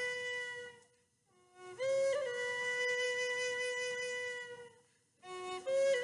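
Solo Native American flute playing slow, long held notes with small grace-note flourishes at their starts. The phrases break for a moment twice.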